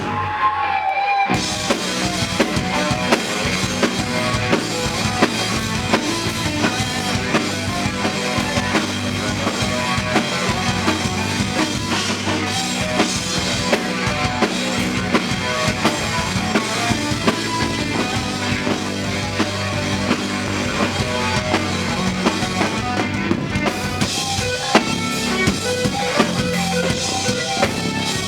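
Live band music with a full drum kit keeping a steady beat over bass and guitar; the band comes in at full force about a second in after a brief break.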